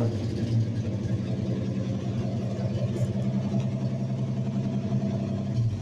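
1982 Chevrolet S10's engine idling steadily through a custom dual exhaust with 2.5-inch pipes and 2.25-inch tailpipes.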